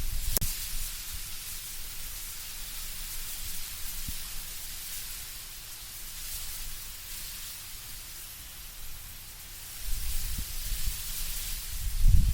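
Wind blowing through autumn trees, with a steady, hissing rustle of leaves. Low rumbling gusts come through at the start and again from about ten seconds in.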